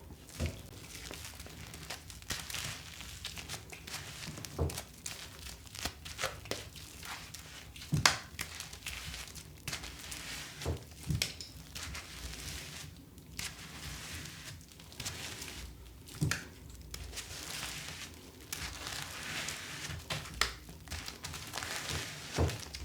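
Packaging being handled: crinkling and tearing, with scattered knocks, the loudest about eight seconds in.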